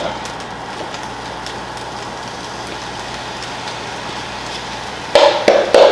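Rice and thawed mixed vegetables sizzling steadily in a nonstick skillet over medium heat, just after the vegetables are poured in. A short louder noise comes about five seconds in.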